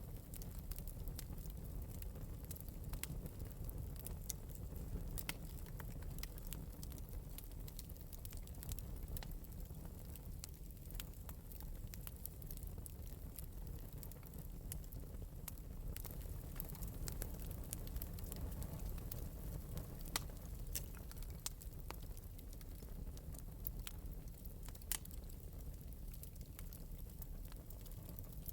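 Wood fire burning in an open metal fireplace, a steady low rumble of flames with frequent small irregular crackles and pops.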